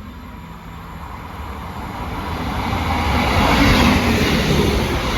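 Northern Class 158 diesel multiple unit passing through the station: its engine and wheel rumble grow steadily louder, peaking shortly before the end and then easing slightly.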